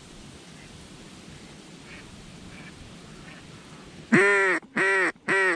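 Mallard duck call blown in a hen-quack sequence: a few faint quacks around two to three seconds in, then about four seconds in three loud, drawn-out quacks in a steady rhythm.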